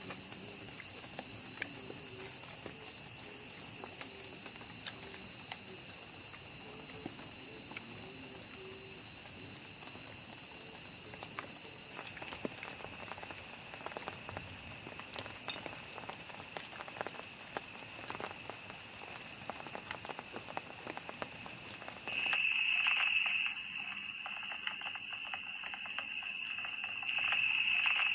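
Rain pattering on a plastic tarp shelter in a steady scatter of small taps. A steady high-pitched insect chorus runs over the first twelve seconds and cuts off abruptly, and a lower-pitched steady insect drone comes in near the end.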